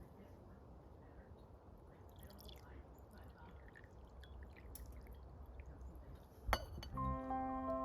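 Faint dripping and trickling of liquid with small scattered ticks, then a single sharp click. Soft piano music begins near the end.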